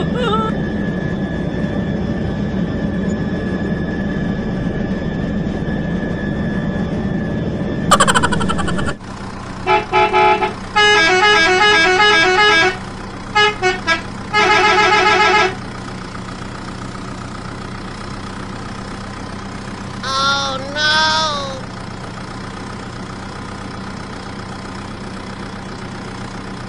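A small battery motor whirs steadily for about eight seconds, then a run of loud vehicle horn toots comes in quick bursts. Later there are two short wavering honks over a steady low hum.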